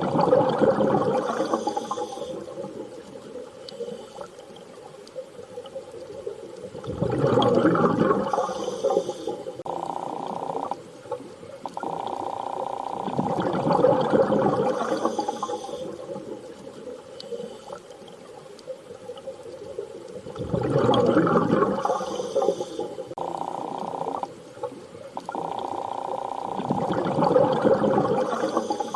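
Underwater water ambience: a rushing, bubbling surge swells and fades about every six to seven seconds, over a steady mid-pitched tone that breaks off briefly twice.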